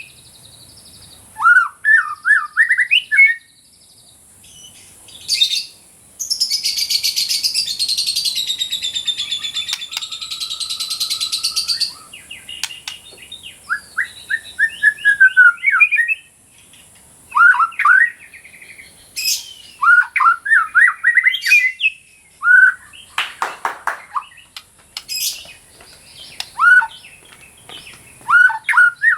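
White-rumped shama singing: short bursts of rapid, sharply gliding whistled notes, broken by a harsh buzzy chatter lasting about six seconds from about six seconds in. A steady high hiss runs underneath.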